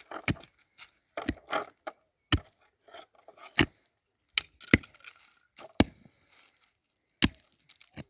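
A heavy hand tool, axe or digging tool, striking hard ground or wood in about seven sharp blows roughly a second apart, with a light clinking crackle between strikes.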